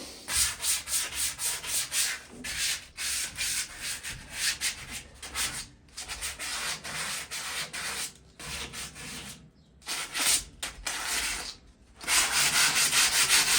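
Sandpaper scraping back and forth by hand over the rusted metal of a patio chair, taking off light surface rust. It comes in quick, rhythmic strokes with a few short pauses, and the strokes are loudest near the end.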